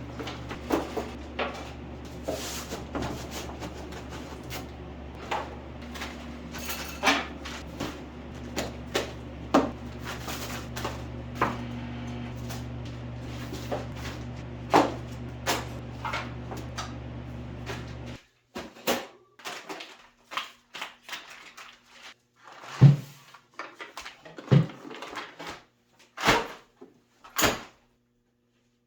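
Clicks, knocks and light thumps of things being handled and set down, over a steady low hum. The hum cuts out about two-thirds of the way through. After that come scattered clicks and knocks, with two heavier thumps.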